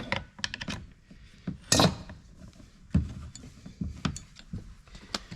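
Scattered clicks and knocks of small chainsaw parts and hand tools being handled during a rebuild, with louder clatters about two seconds and three seconds in.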